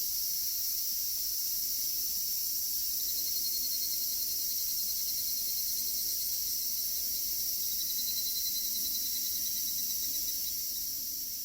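Dense chorus of cicadas, a steady high shrill, with a higurashi (evening cicada) calling twice in a pulsing trill, about three seconds in and again about eight seconds in. The sound begins to fade near the end.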